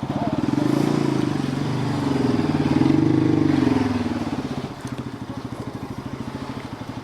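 Motorcycle engine running at low speed, swelling a little twice in the first four seconds, then settling to a steady idle.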